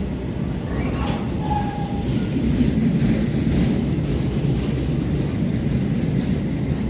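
Container freight train passing, its wagons making a steady low rumble on the track, with a brief high squeal about a second in.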